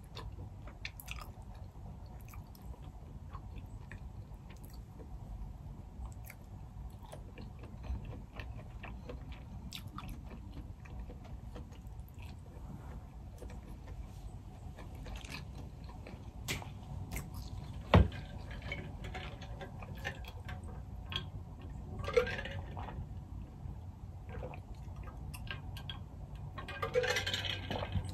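Chewing and mouth sounds of someone eating boiled crawfish and king crab, with many small scattered clicks of crawfish shells being peeled and one sharp click about eighteen seconds in.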